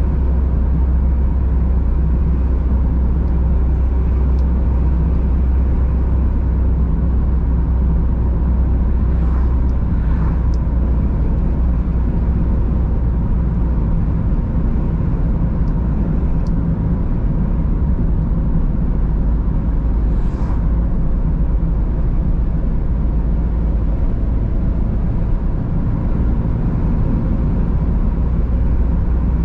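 A car driving steadily along a country road: a constant low rumble of tyres and engine heard from inside the car, with brief faint swells about ten and twenty seconds in.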